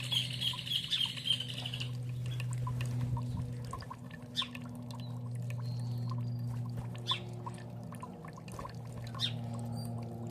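Songbird singing a fast run of repeated high chirps that stops about two seconds in, followed by a few single sharp calls spaced a couple of seconds apart. Under the birdsong runs a steady low sound of running water.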